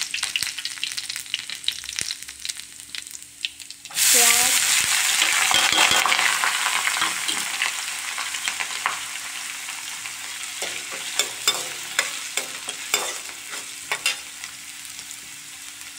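Ginger-garlic paste sizzling in hot mustard oil in a steel kadai. About four seconds in, chopped onion goes into the oil and sets off a sudden loud sizzle that slowly dies down. A steel spoon scrapes and clicks against the pan as it is stirred.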